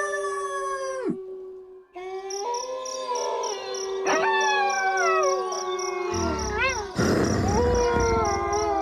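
A pack of wolves howling in chorus: several long howls overlap, one held on a steady low note while others slide down in pitch. The howls stop for a moment about a second in, then resume, with one howl quavering rapidly up and down near the end.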